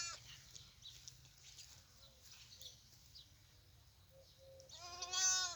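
A newborn lamb bleats once near the end, a single wavering call; before it only faint small clicks and rustling.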